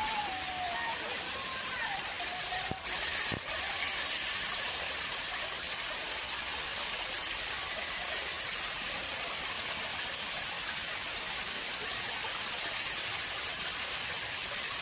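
Water flowing and splashing into an artificial pond: a steady, even rush. A faint falling whistle sounds in the first couple of seconds.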